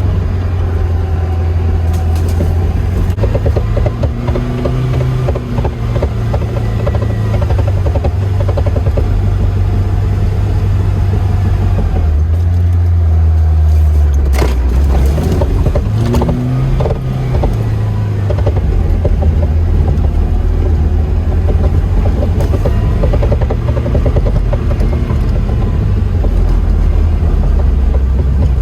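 Lada Niva's engine running while the car is driven, a loud low drone that drops in pitch about halfway through and then climbs again. A few sharp knocks come through, the loudest about halfway.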